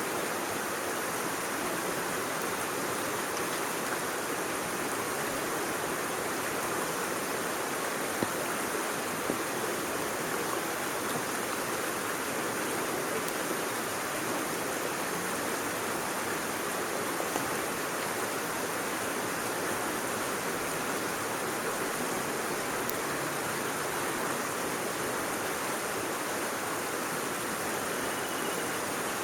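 Steady rushing of running water, as of a stream, with a few faint ticks.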